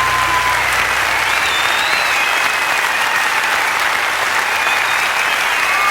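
Concert audience applauding steadily, with a few high whistles.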